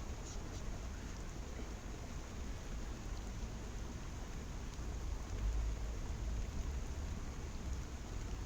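Waterfall rushing steadily with rain falling, a continuous wash of water noise; the low rumble swells a little past halfway.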